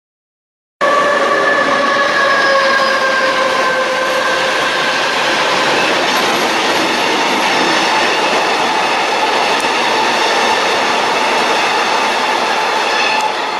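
Train passing through a station at speed, the rumble of wheels on the rails under a whine of several tones that slowly drops in pitch. It starts abruptly about a second in.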